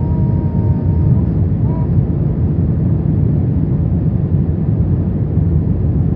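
Steady low roar inside an Airbus A321 cabin on its descent: rushing airflow and engine noise, heavy and low, without change.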